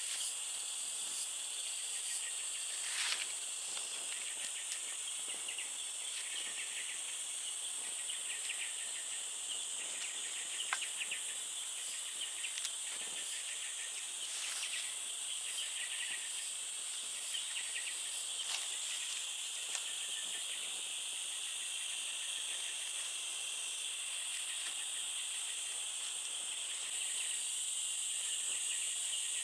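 Insects buzzing steadily in a high, continuous chorus with pulsed chirping mixed in, and a few sharp clicks now and then.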